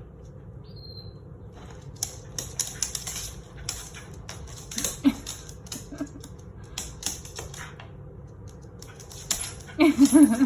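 Goffin cockatoo chewing and crunching with its beak, irregular sharp clicks and crackles, with a short burst of vocal sound near the end.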